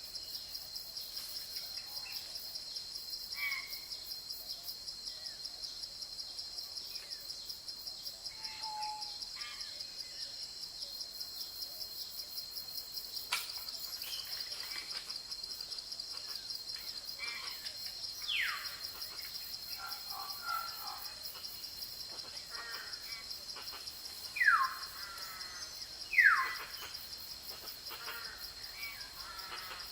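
Forest ambience: insects trilling steadily in a fast, even pulse, with scattered bird calls over it. Three falling whistled bird calls stand out, one about two-thirds of the way in and two louder ones near the end.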